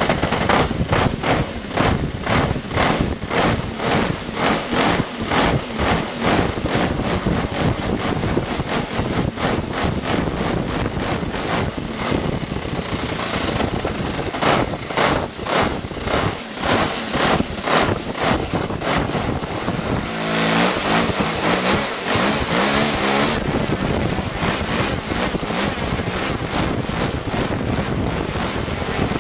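Saito 80 four-stroke glow engine running on a model airplane, its valve clearance freshly set, firing steadily without backfiring. It rises and falls a little in speed, drops to a slower idle about twenty seconds in, and is opened up again a few seconds later.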